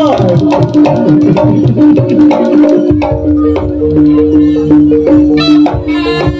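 Live jaranan gamelan music: hand-drum (kendang) strokes over a repeating figure of pitched gong-chime notes. About five seconds in, a reedy wind melody joins.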